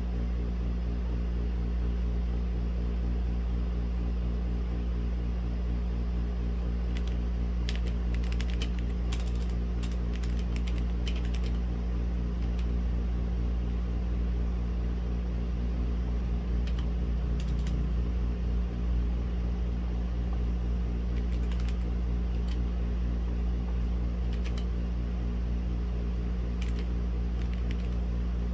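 Typing on a Womier/Gamakay K87 mechanical keyboard with red linear switches, in scattered runs of keystrokes with pauses between them. Under it runs a steady low mechanical hum, the loudest sound throughout.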